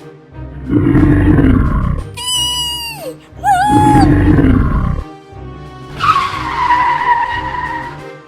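Cartoon sound effects over background music with a steady beat: two growling roars, high falling squeals between them, and a long screech near the end.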